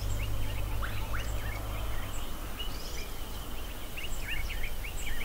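Wild birds calling in the background, a busy series of short, quick chirps and downward-sweeping notes, over a low rumble that eases about two seconds in.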